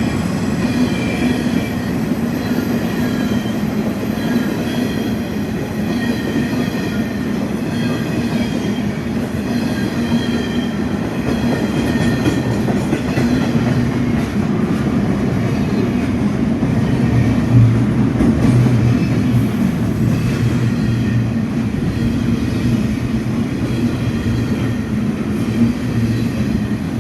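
Freight train hauled by 81 class diesel-electric locomotives running past at close range: a steady engine drone over the sound of the wagons rolling on the rails.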